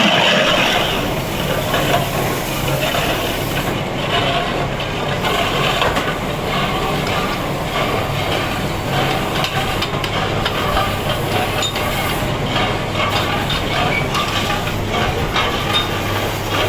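Steady machine noise with a low hum and a scratchy hiss of fine ticks, from stone being worked with a tool.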